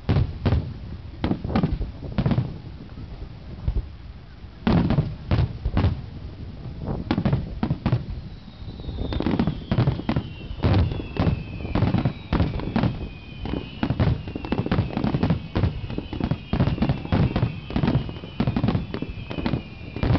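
Aerial firework shells bursting in rapid succession: a dense barrage of booms, with a short lull a few seconds in. From about nine seconds in, several high whistles sliding slowly down in pitch run over the bangs.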